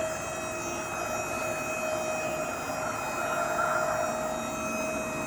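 Electric hydraulic pump motor of a Maxon rail lift gate running with a steady whine as it moves the platform, the gate working properly.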